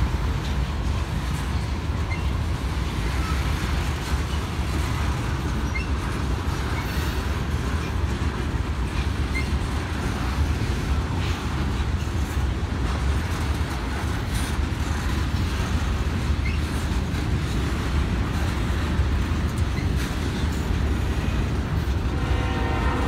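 Freight train of hopper and tank cars rolling past at a steady speed: a continuous low rumble of wheels on rail, with a few faint squeaks. Just before the end, a train horn starts to sound.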